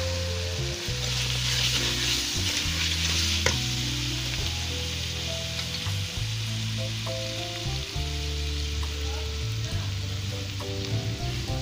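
Potato chunks frying and sizzling in oil with onion-tomato masala in a metal pan, stirred with a steel ladle, with one sharp clink of metal on metal about three seconds in. Background music with held notes plays under it.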